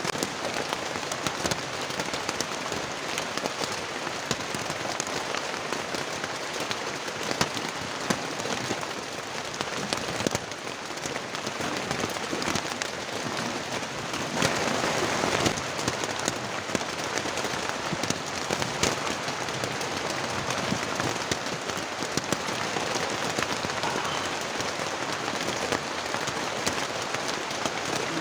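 Heavy rain falling steadily, with many sharp ticks of drops striking close by; it swells briefly about halfway through.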